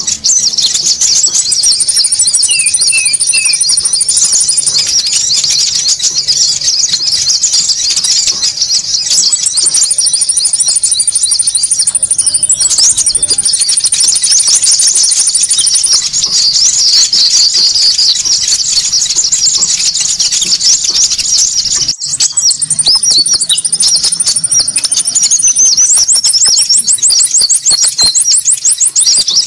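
Bird-lure recording of many small birds calling noisily at once: dense high-pitched chattering and twittering, with a long thin high whistle held for a few seconds three times and a fast trill near the end.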